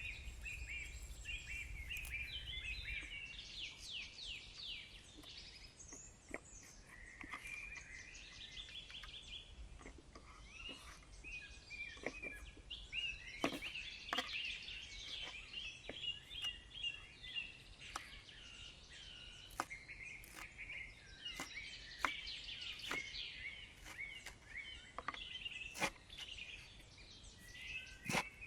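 Wild birds singing and chirping continuously in a forest chorus, with scattered sharp clicks and knocks at irregular intervals.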